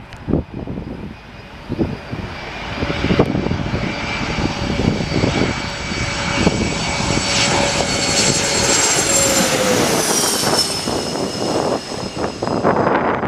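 Airliner passing close by, its engines making a steady multi-tone whine that builds up, then drops in pitch as it goes past about ten seconds in. Wind buffets the microphone at the start and end.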